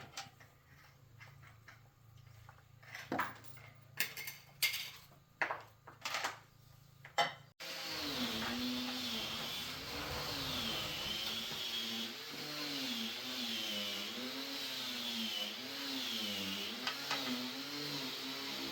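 A few scattered knocks and clicks of metal parts being handled, then, after a sudden cut, an engine running steadily with its speed wavering up and down about once a second.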